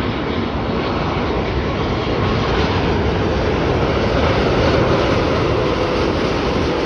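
Jet engines of a Boeing 747-8 freighter on approach: a steady rushing noise with a low hum, slowly growing louder.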